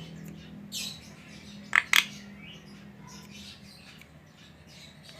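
Starling (jalak) calling: a harsh high note about a second in, then two loud, sharp calls in quick succession near the two-second mark, with faint chirps in between.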